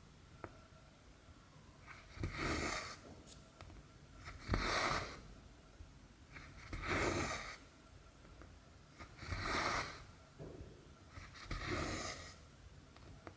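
Cotton embroidery thread pulled through cross-stitch fabric, a rasping swish with each stitch, five times at an even pace about every two and a half seconds.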